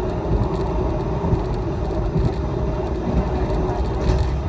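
Train running at speed, heard from inside the carriage: a steady low rumble of wheels on rail with a faint steady hum over it.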